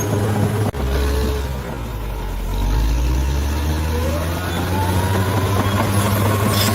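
Heavy bulldozer diesel engine running; its note sinks lower for a few seconds as if lugging under load, then climbs back with a rising whine.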